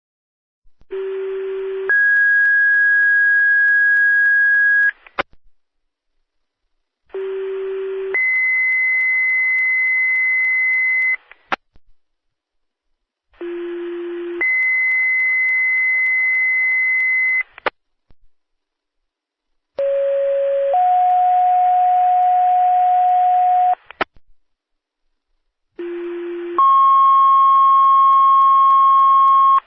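Fire dispatch two-tone sequential paging tones heard over a radio, five tone sets about six seconds apart. Each is a short lower tone of about a second, then a longer higher tone of about three seconds, with hiss behind and a click as each transmission drops. Each tone pair alerts a fire company to a call.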